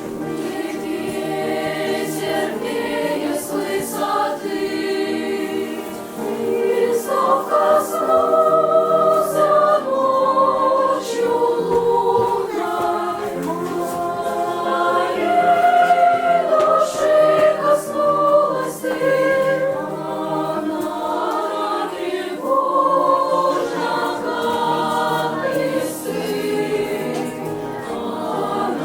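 Children's choir singing a slow piece in several voice parts, the sustained notes shifting in pitch and swelling louder midway.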